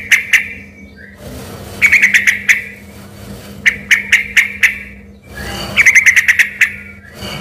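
Yellow-vented bulbul (trucukan) singing in a lively, full-voiced way. It gives short bubbly phrases of rapid notes, repeated about every two seconds, in a song that is easily mistaken for a white-rumped shama's.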